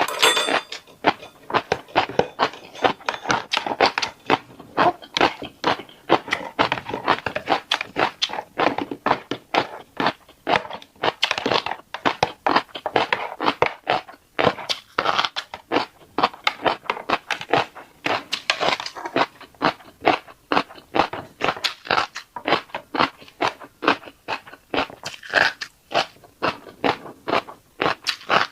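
Close-miked chewing of a mouthful of fish roe, a dense run of short wet clicks and crunches, several a second, as the eggs are bitten and chewed.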